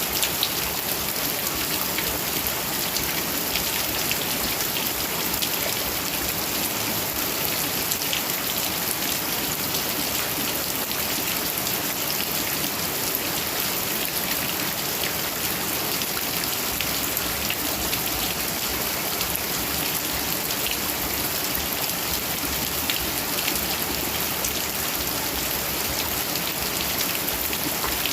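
Heavy rain falling steadily: a dense, even hiss with many individual drops ticking on surfaces throughout.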